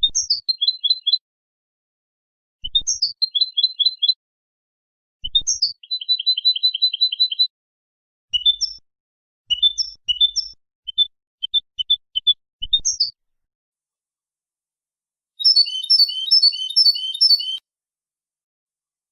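European goldfinch singing: short phrases of rising notes and quick trills, separated by silent gaps, with a longer, denser twittering phrase near the end.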